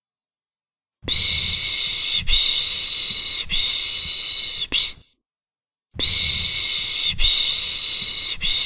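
A person's soothing 'shh' shushing for a baby, in two long hushes of about four seconds each, starting about a second in and about six seconds in. Each hush is broken into a few pulses, with a second of silence between hushes.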